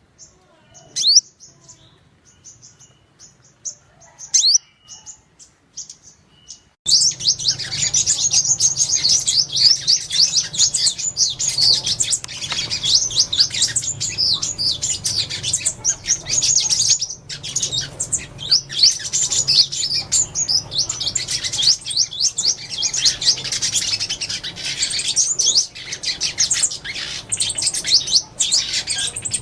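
Sunbirds calling to gather the flock. It opens with a few thin, high chirps about a second apart, then about seven seconds in switches abruptly to dense, continuous chattering of many birds calling at once over a low hum.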